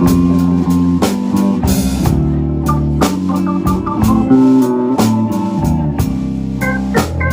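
Live blues band playing an instrumental break: electric guitar over a drum kit, with a keyboard line of held high notes coming in near the end.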